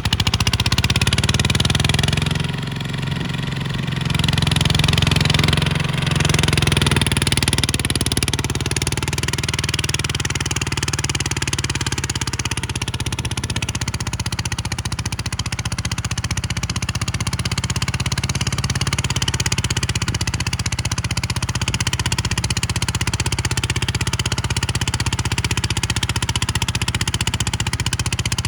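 Kubota tractor's diesel engine running steadily, with brief dips in level a few seconds in.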